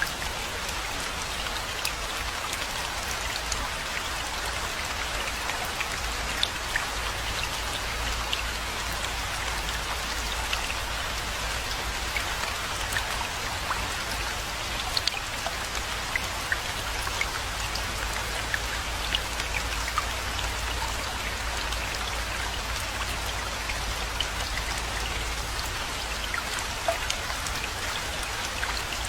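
Steady rainfall: an even hiss of rain with many distinct drop ticks scattered through it, over a steady low rumble.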